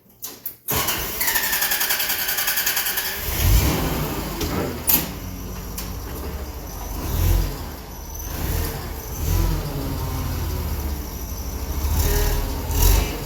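A motor vehicle's engine is cranked by its starter with a whine for about two seconds, then catches and runs with a low rumble that swells a few times.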